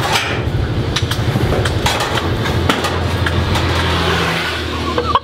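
A motor vehicle's engine running with a steady low rumble, with scattered short clicks and knocks over it.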